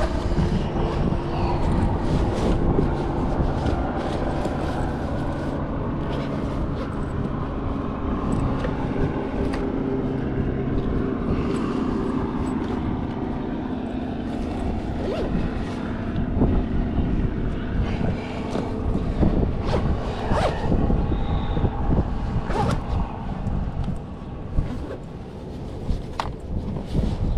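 Passing traffic and wind on the microphone during a ride, with engine hums that come and go and scattered clicks and knocks.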